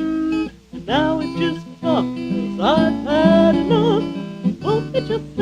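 Acoustic guitar strummed under a woman singing, a song from a home four-track recording.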